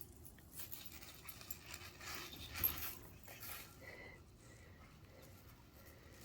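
A dog panting faintly in short, uneven breaths.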